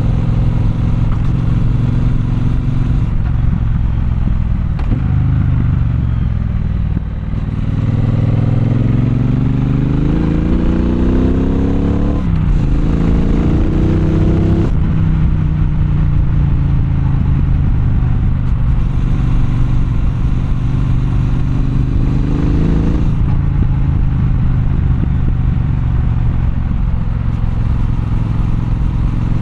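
Triumph Bonneville Bobber's 1200 cc parallel-twin engine being ridden through city traffic. It runs steadily, dips briefly about seven seconds in, then rises in pitch twice as the bike accelerates, with a short break for a gear change around twelve seconds. It then settles back to steady running.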